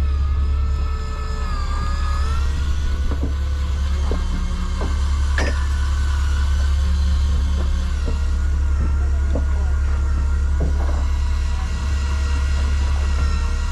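Fishing boat's engines running under way: a steady low drone, with fainter whining tones above it that drift up and down in pitch and a few light knocks.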